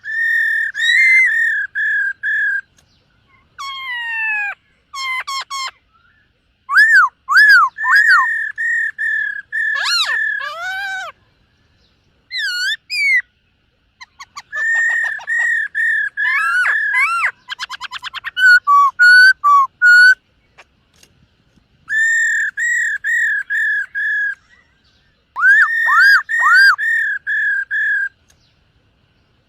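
Black-throated laughingthrush singing: loud, clear whistled phrases made of runs of repeated slurred notes, with a fast trill about eighteen seconds in and short pauses between phrases.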